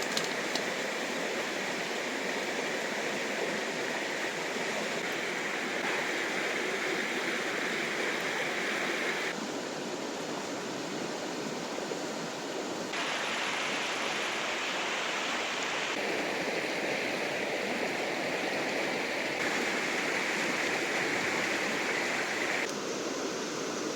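Fast-flowing river water rushing steadily, its tone shifting abruptly every few seconds.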